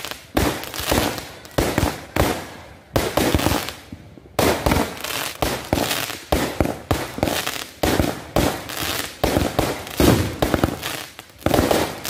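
Fireworks going off in quick succession: sharp bangs and pops, about two or three a second, as shots launch and burst overhead. There is a short lull about three seconds in.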